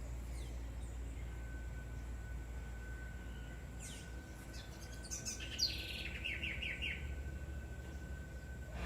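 A bird singing a short phrase of quick chirps about four to seven seconds in, ending in a run of about five short repeated notes, over a low steady rumble.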